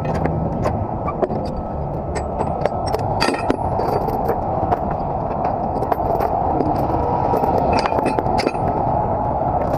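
Steel tie-down chains clinking and rattling as they are handled and hooked while securing a load on a flatbed trailer, with many sharp, irregular metallic clinks over a steady background rumble.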